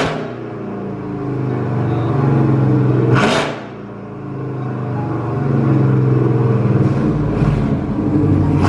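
V8 truck engine running through a freshly fitted aftermarket exhaust with electronic cutouts, x-pipe and long-tube headers, its note swelling and easing twice as it is revved, with short hissy bursts about 3 s in and about 7 s in.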